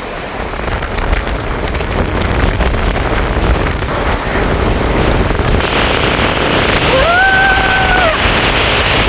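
Wind buffeting the microphone with rain pattering, a steady rushing noise that gets a little louder and brighter partway through. Near the end a single pitched note, about a second long, sounds over it.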